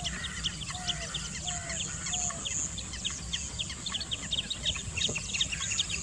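Many birds chirping in quick, overlapping short notes, several a second, with four short lower falling calls in the first two seconds or so, over a steady low background rumble.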